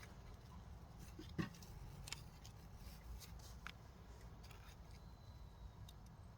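Faint, scattered scrapes and ticks of hand-digging in soil, with one sharper knock about 1.4 s in.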